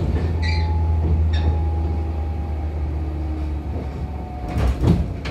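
Running sound inside a 415 series electric multiple unit motor car (MoHa 415): a steady low rumble with a faint whine that slowly falls in pitch as the train slows, and a cluster of knocks from the wheels over the rails about four and a half seconds in.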